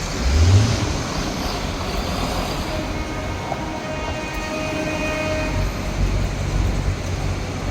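Tractor engines rumbling and revving in slow-moving traffic, with one revving up just after the start. A horn sounds steadily for about three seconds in the middle.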